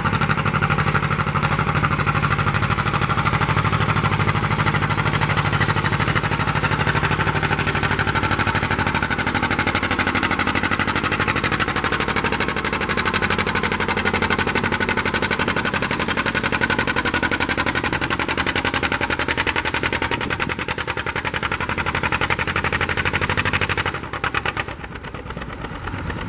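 Competition pulling tractor's engine running hard at high revs, its exhaust a fast continuous rattle. The level drops away sharply near the end.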